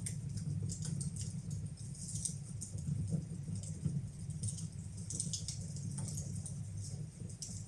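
Fire burning in a fireplace, crackling with many irregular snaps and pops over a steady low rumble.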